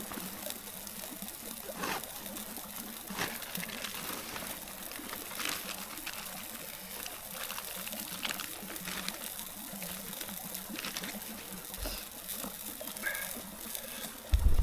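A stream flowing steadily, with scattered small clicks and pops over it and a low thump right at the end.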